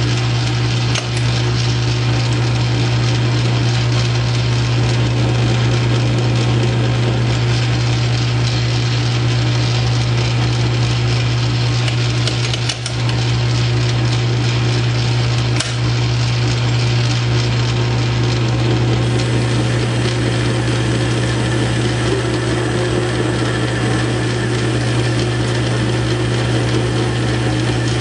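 South Bend 9-inch lathe running steadily under power while a turning tool cuts a stainless steel rod, a constant low hum from the motor and drive with cutting and gear noise over it. The sound dips briefly about a second in and twice more in the middle.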